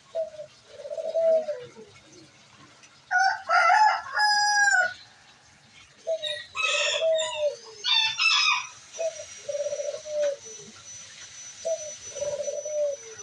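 Pigeons cooing, a low call repeated every few seconds, while a rooster crows twice, loud and higher-pitched, about three seconds in and again about six seconds in.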